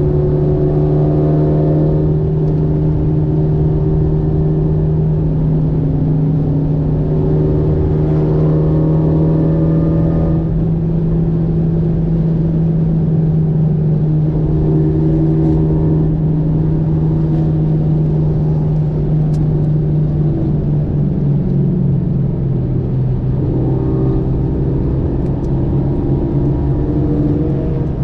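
Renault Mégane RS 275 Trophy's turbocharged 2.0-litre four-cylinder engine under steady load, heard from inside the cabin over road and tyre noise. The engine note holds level and drops slightly about two-thirds of the way through.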